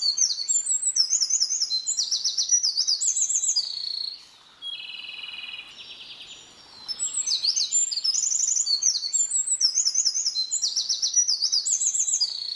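A small songbird singing fast, high whistled notes in a rapid run, breaking about four seconds in into a quieter, lower trill, then resuming the high run about seven seconds in.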